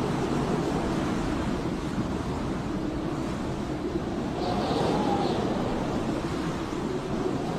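Snowstorm wind howling: a steady rush with a whistling tone that slowly rises and falls in pitch.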